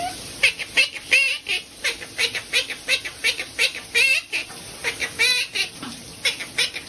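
A pet bird chirping excitedly in a quick series of short, warbling calls, several a second, over the steady hiss of running tap water.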